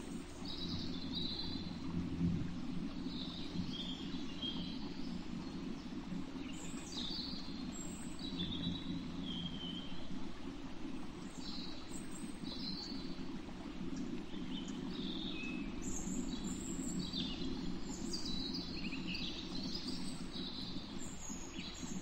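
Short, high bird chirps, many of them falling in pitch, come scattered through and grow busier in the second half. Under them runs a steady low rumble of background noise.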